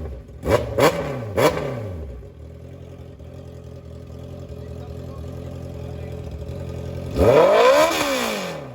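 Honda CBR650R's inline-four engine with a loud aftermarket exhaust being revved: three quick throttle blips in the first second and a half, then idling, then one longer rev up and back down near the end.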